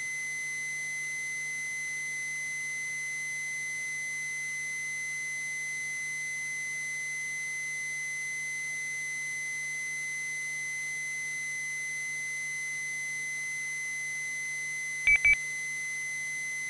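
A steady, unbroken high-pitched tone with a faint low hum beneath it, heard on the radio audio between transmissions. About 15 seconds in come two short clicks with a brief beep.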